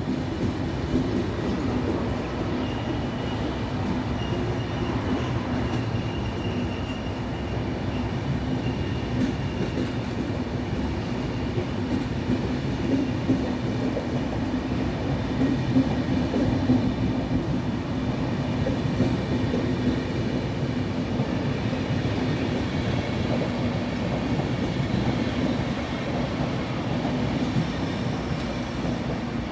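A train running at a station platform: a steady running noise with a faint high whine over it, holding level throughout.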